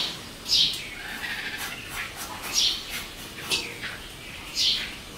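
A bird calling in short, high chirps, about five of them roughly a second apart. Faint scraping of a knife peeling a ripe mango lies underneath.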